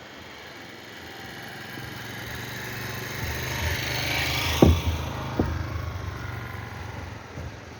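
A motor vehicle passing close by: its engine noise swells to a peak about halfway through, then fades. Two sharp thumps come about a second apart at the loudest point.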